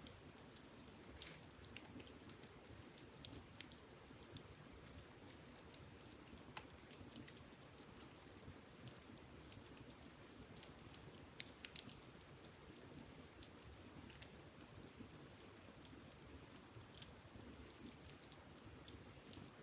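Wood campfire crackling faintly, with irregular sharp pops and snaps scattered throughout, a cluster of them about a second in and again around eleven to twelve seconds in, over a soft steady low background.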